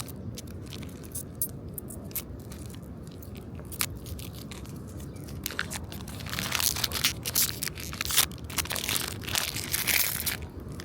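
Trading-card booster packs' foil wrappers being handled, with a few sharp crinkles, then torn open and crinkled in a dense crackling run through the second half.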